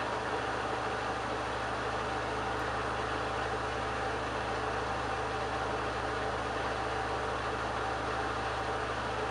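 Candy Bianca front-loading washing machine spinning its drum at a steady speed: an even rushing noise with a constant motor whine and hum.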